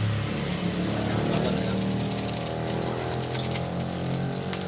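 Spice paste frying in hot oil, sizzling and crackling lightly, over a steady motor hum.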